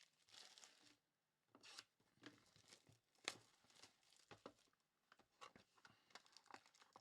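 Faint tearing and crinkling of a foil trading-card pack wrapper, with scattered light clicks and rustles of cards being handled; one sharper click a little after three seconds in.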